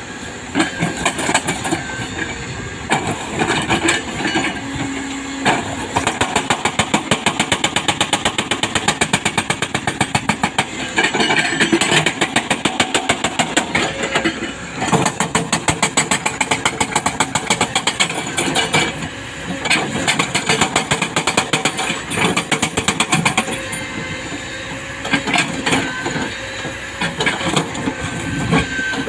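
Kobelco excavator's hydraulic breaker hammering rock in rapid, even blows, in several long bursts with short pauses between, over the excavator's running engine.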